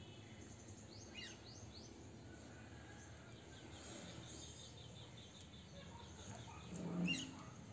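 Birds chirping: short high falling chirps, then a quick run of small chirps, over a low steady background hum, with one louder burst about seven seconds in.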